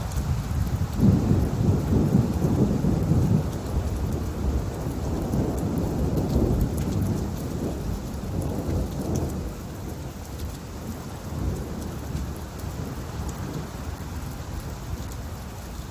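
Thunderstorm: steady rain falling while thunder rumbles low, loudest from about a second in and slowly rolling away over the following seconds.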